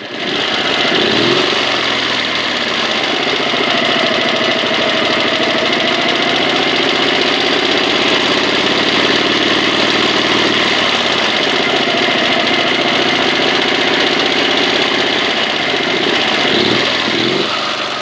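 Small petrol engine catching and speeding up, then running steadily at a fast idle, with a brief rev near the end.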